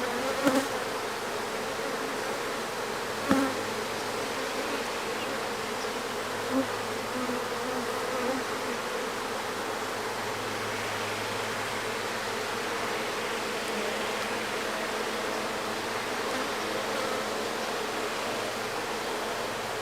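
Honeybees buzzing around an opened hive, a steady hum, with a light knock about three seconds in.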